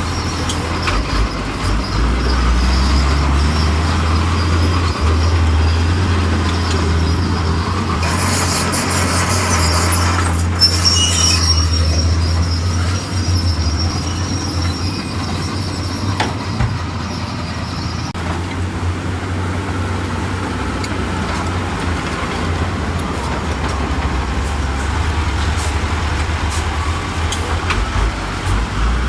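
Heavy diesel earthmoving machinery running under steady load with a deep, even engine rumble. From about a third of the way in there is a hiss, then a thin, high metallic squeal that holds for several seconds.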